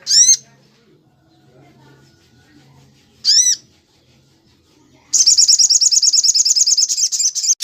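Bird calls from a song-training recording: two short, loud, arched calls about three seconds apart, then a fast rattling trill from about five seconds in to the end.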